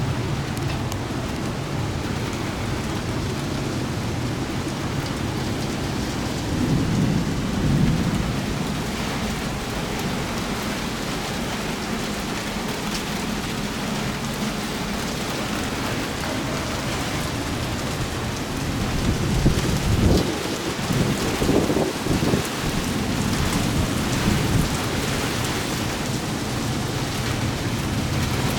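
Steady heavy rain from a thunderstorm, with low rolls of thunder. One rumble comes about a quarter of the way in, and a louder, longer one about two-thirds of the way through.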